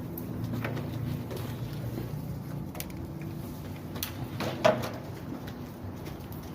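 Handling noises: scattered clicks and scrapes, with one sharp knock about four and a half seconds in, over a low steady hum.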